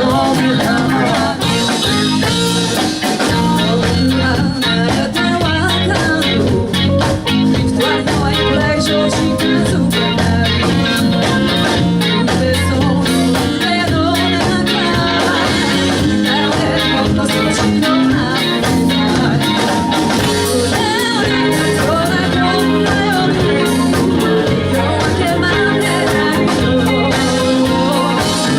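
Live band playing a song: sung vocals over guitar, with a steady beat.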